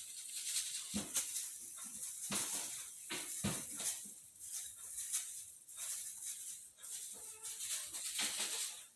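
Irregular rustling, scratching and light knocks from a Devon Rex kitten moving and playing about, with a brief faint pitched sound, likely a small meow, about seven and a half seconds in.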